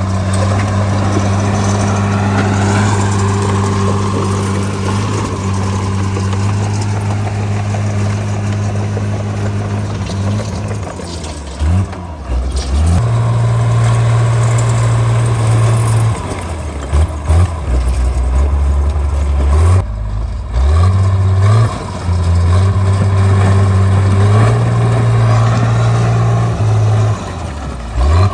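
Caterpillar D3C bulldozer's diesel engine working, its engine speed steady at first and then repeatedly dropping and rising in the second half as the machine pushes rock, over a constant clatter and rumble.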